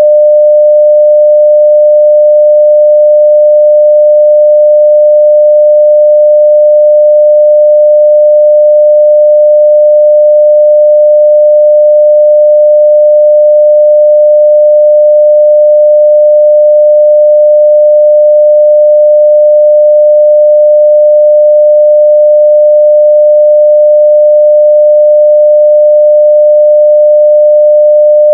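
A 600 Hz pure sine-wave test tone at full level, held perfectly steady.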